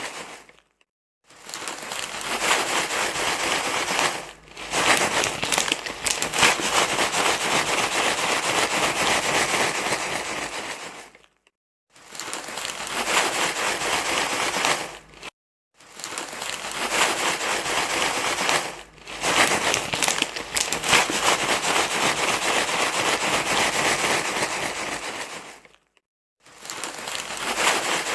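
Crinkling, rustling noise in long stretches of several seconds, broken by four short silences.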